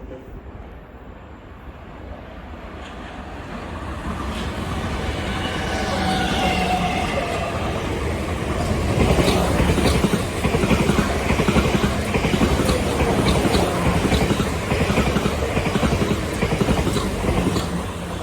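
Passenger train approaching, growing louder over about nine seconds, then running past with wheels clattering in quick clicks over the rail joints.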